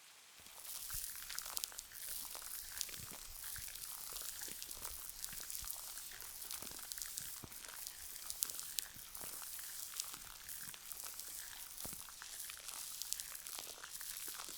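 Close-miked ASMR sounds of a gel cleanser being lathered and worked on skin: a continuous wet, crackling texture of many tiny pops and crinkles, picking up about half a second in after a brief lull. A soft rain ambience runs underneath.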